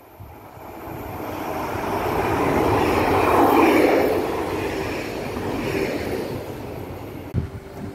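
SNCF Z 24500 double-deck electric multiple unit passing through the station at speed. Its rumble and wheel-on-rail noise swell to a peak about three and a half seconds in, then fade as it draws away.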